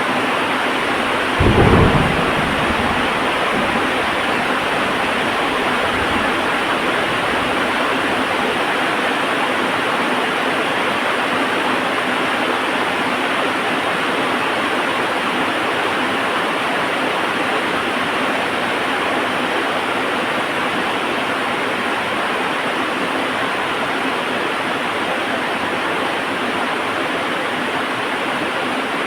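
Heavy rain falling steadily. A sharp thunderclap comes about a second and a half in, and a low rumble dies away over the next several seconds.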